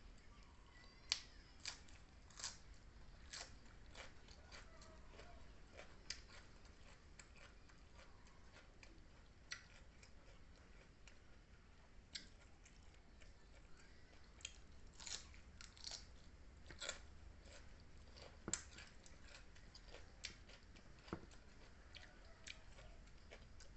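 Faint chewing with scattered sharp mouth clicks and smacks of someone eating.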